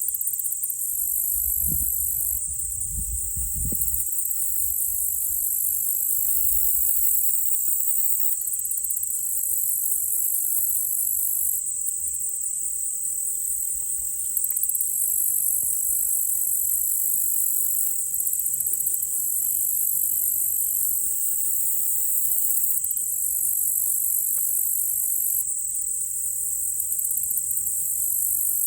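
Steady high-pitched chorus of crickets and other insects trilling, its upper layers pulsing in waves, with a brief low rumble a couple of seconds in.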